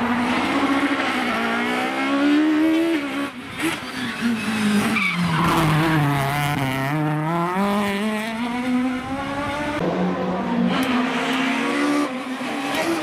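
Peugeot 306 Maxi rally car's naturally aspirated four-cylinder engine revving hard, its pitch climbing and dropping sharply as it changes gear several times. About halfway through, the revs fall low, then build again.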